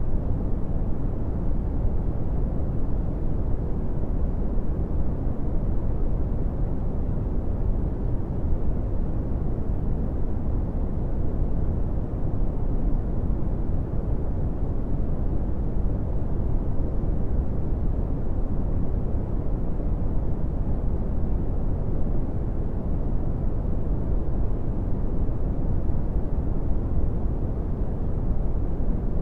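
Brown noise: a steady, deep hiss with its weight in the low end and little treble, unchanging throughout.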